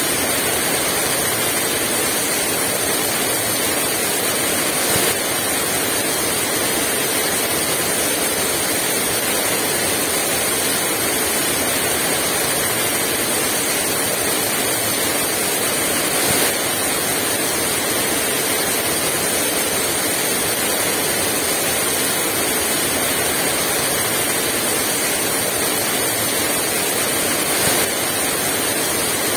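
Heavy rain pouring steadily, a dense even hiss with three brief slightly louder moments.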